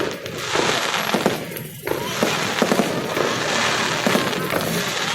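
Fireworks going off in a dense crackling barrage of rapid pops, with a short lull just under two seconds in before the crackling resumes.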